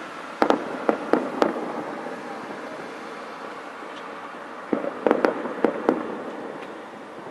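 Fireworks going off: a quick run of about four sharp bangs near the start, then another cluster of about five bangs a few seconds later, over a steady hiss.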